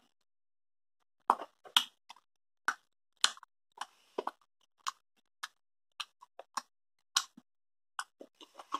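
Wet mouth smacks and clicks of someone chewing a soft, chewy fruit candy, irregular, one or two a second, starting about a second in.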